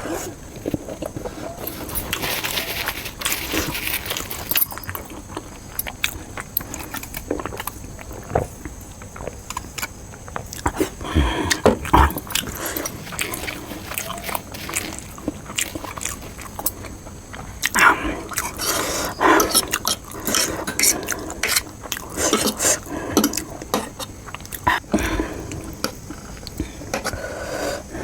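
Close-miked eating sounds of spicy noodles and fried momos: chewing and biting, with scattered clicks and clinks of cutlery on a plate.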